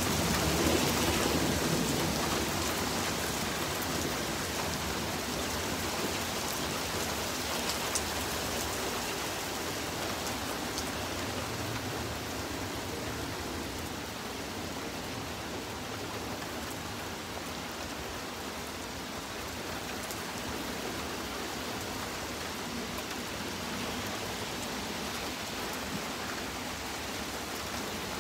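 Steady rain falling on a street and lawns, an even hiss of drops that eases off a little over the first half.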